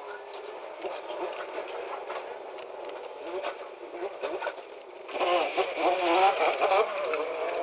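Faint metallic clicks of parts being handled, then about five seconds in a small power tool's motor starts up with a wavering buzz.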